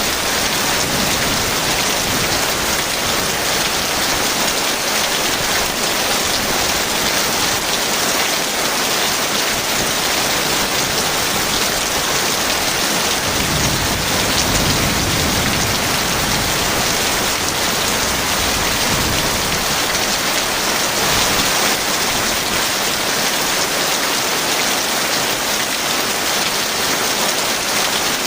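Heavy rain falling steadily, with a low rumble of distant thunder about halfway through.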